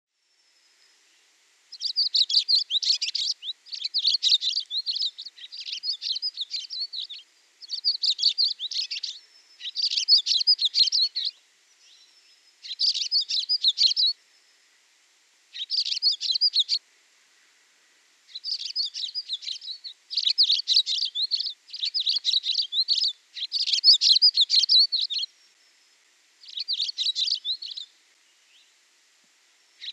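A small songbird singing the same rapid, high twittering phrase over and over, each phrase about a second long with short pauses between.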